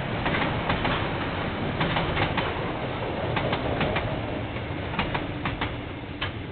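A KiwiRail train's wagons rolling past, their wheels clacking in quick pairs over the rail joints above a steady rumble, growing fainter toward the end.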